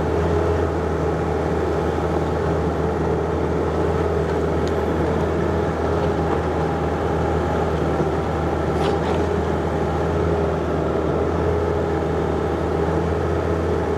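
John Deere 50ZTS mini excavator's diesel engine running steadily at a constant speed, with a brief faint high clink about nine seconds in.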